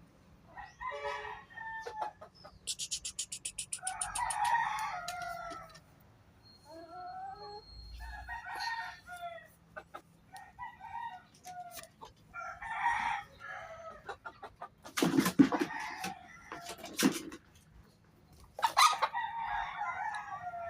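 Chickens clucking and crowing: a series of separate calls a couple of seconds apart, with a quick rattling burst early on and louder, harsher bursts a little past the middle.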